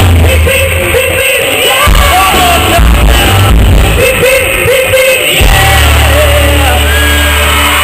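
Loud live rock band playing with a lead singer, recorded close to the stage in a large hall. The bass drops out for stretches and returns steady about five and a half seconds in.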